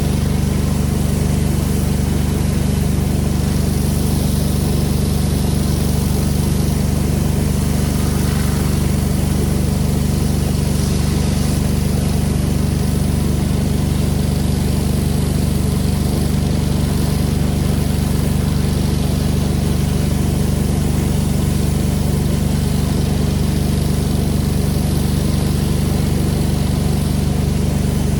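Pressure washer's engine running steadily at constant speed, with an even hiss over it and no change throughout.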